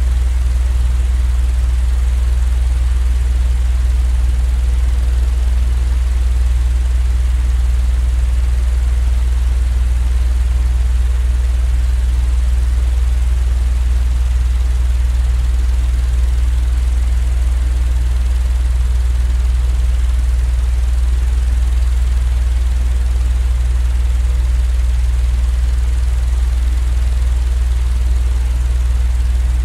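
A steady, deep machine drone that does not change, sitting mostly in a low rumble with a fainter hiss above it: a continuous sleep-noise track.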